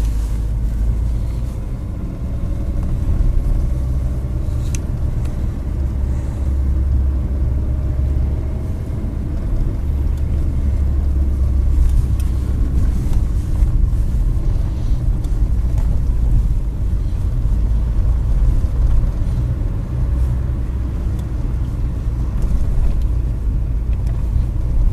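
A car driving, heard from inside: a steady low engine and road rumble, with a faint whine that drifts slowly up and down in pitch.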